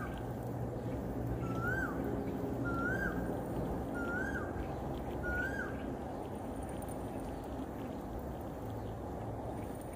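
A bird calling: a short whistled note that rises and then drops, repeated about every second and a quarter, some five times, stopping about halfway through. A steady low background noise runs underneath.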